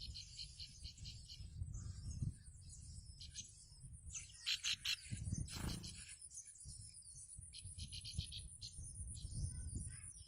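Adult prinia (ciblek) calling near its nest: a series of short, rapid chattering trills repeated every second or so, loudest about four to five seconds in. A steady high-pitched whine and a low rumble run underneath.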